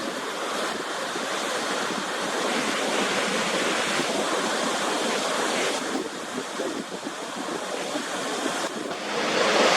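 Steady rush of falling water from a waterfall, with wind on the microphone. The sound changes abruptly twice and grows louder near the end.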